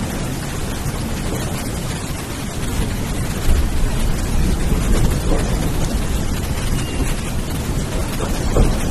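Steady downpour of rain with a low rumble of thunder that swells a few seconds in and again near the end.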